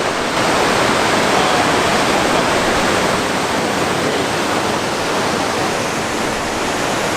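Tarawera Falls' water pouring and rushing, a loud, steady sound.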